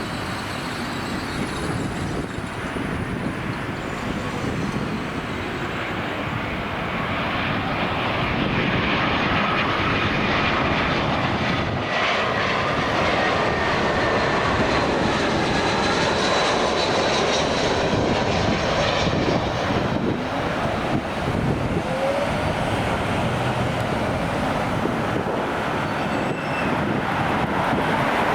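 Airliner jet engines roaring as a plane passes, with a faint whine above the roar. It grows louder about a third of the way through and stays loud.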